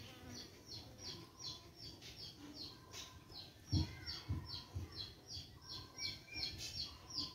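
A small bird chirping over and over, short falling chirps at about three a second. A few dull low thumps break in, the loudest about four seconds in.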